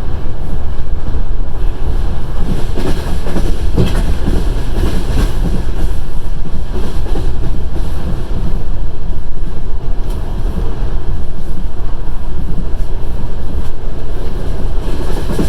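Passenger train running along the line: a steady low rumble of wheels on rails, with occasional knocks as the wheels cross rail joints.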